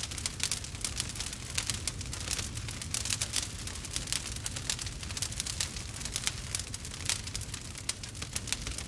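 Wood fire crackling in a fireplace: a dense, irregular run of small pops and snaps over a low steady rumble.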